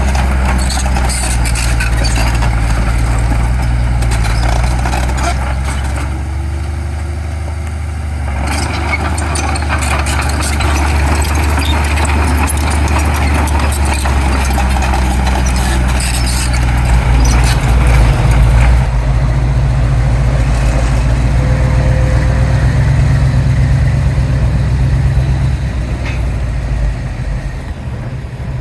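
Heavy diesel earthmoving machinery running hard, its engine working under load and swelling in the middle before easing off near the end, with bursts of metallic clatter at times.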